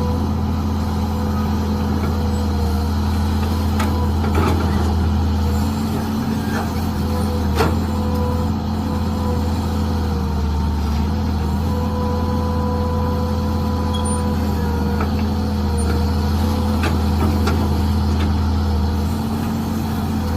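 Mini excavator engine running steadily under working load, its pitch shifting slightly. A few sharp knocks cut through, the loudest about four and seven and a half seconds in.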